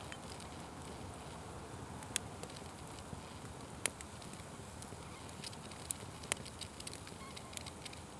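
Wood fire crackling: a steady low rustle of burning with scattered sharp pops, the loudest about two and four seconds in.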